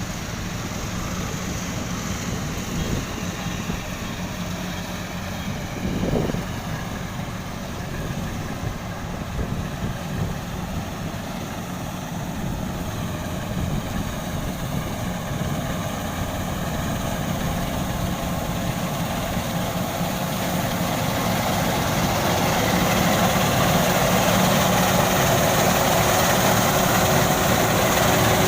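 Combine harvester engines running steadily while cutting rice, with a constant low hum; the sound grows louder about two-thirds of the way through and stays louder.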